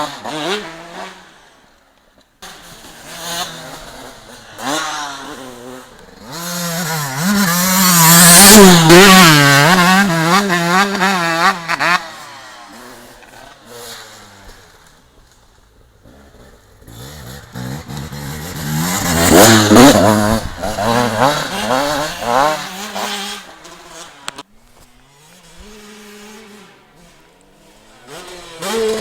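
Motocross bikes being ridden hard, engines revving up and down through the throttle and gear changes. The bikes pass loudly close by about eight seconds in and again about twenty seconds in, fading off in between.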